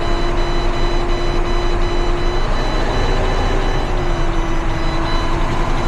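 Heavy truck running with a steady low rumble and a steady whine that cuts out about two and a half seconds in and comes back about a second and a half later.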